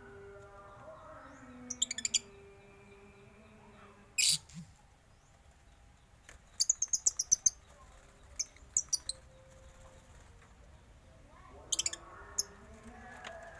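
Caged birds in a mixed aviary chirping: short, shrill high-pitched chirps in scattered clusters, with a quick run of about eight chirps around the middle.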